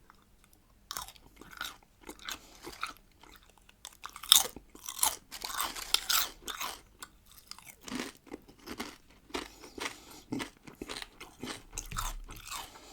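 Biting into and chewing a salted pickled cucumber: a loud crunching bite about four seconds in, a run of crisp crunches after it, then softer chewing through the last few seconds.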